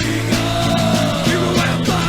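Punk rock band playing: distorted guitars holding chords over a steady drum beat, with a bending guitar line on top.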